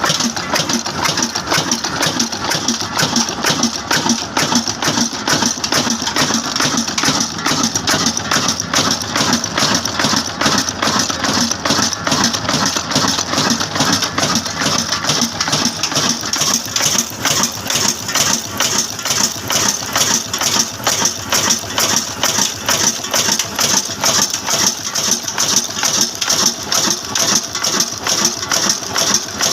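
Old Hornsby black diesel engine running steadily while driving a mini rice mill, with an even, rapid beat.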